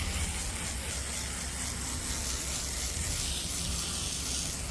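Tru-Cut band sawmill running through wet silver maple: a steady low engine hum under a constant hiss.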